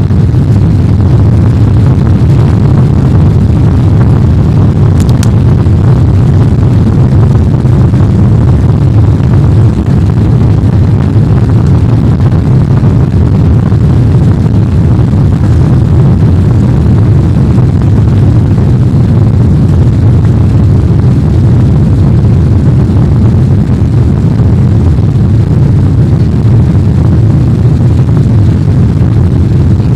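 Airbus A380 jet engines at take-off power: a loud, steady low rumble that holds without change.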